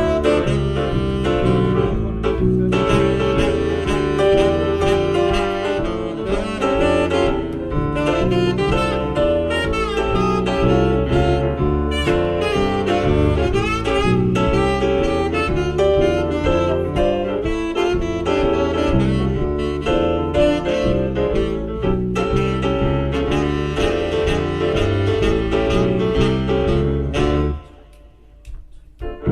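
Live band music led by a saxophone over a stepping bass line, in a jazz style. The band stops short about two seconds before the end and then comes back in.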